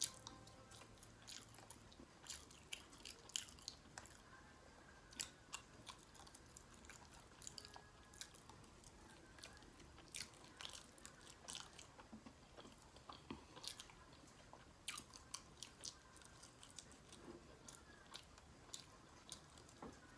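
Faint close-miked chewing of a mouthful of soft food: irregular wet mouth clicks and smacks, several a second.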